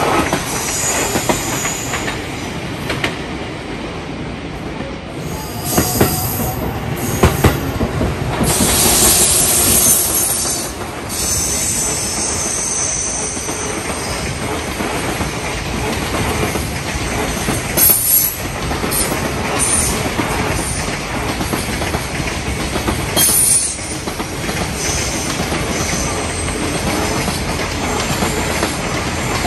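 Freight train rolling past at speed: a long string of wagons with a steady rumble, sharp clatter of the wheels over rail joints, and bursts of high-pitched wheel squeal.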